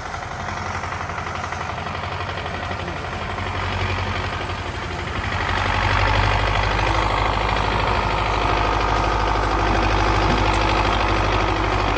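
An engine running steadily with a deep low hum, getting louder about five seconds in.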